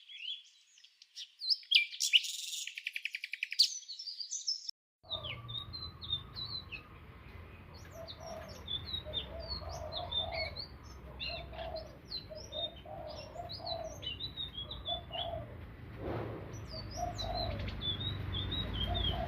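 Blue flycatcher song: quick, high, thin chirps and short trills. About five seconds in the recording changes to a noisier one, where the song goes on over a steady low hum, with lower notes beneath it.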